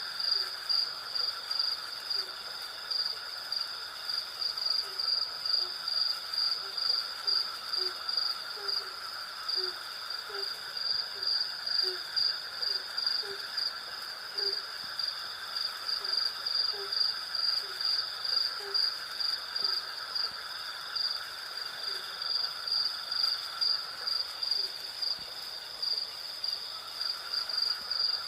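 Night insect chorus of crickets chirping in a steady, rhythmic high pulsing, with other insects trilling underneath. Through most of it a short low call repeats over and over, then stops about two-thirds of the way in.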